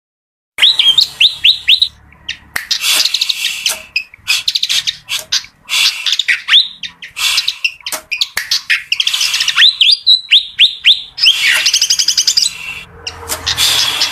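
Fantail (kipasan) singing: runs of short, rising whistled notes alternating with fast, dense chattering phrases, starting about half a second in.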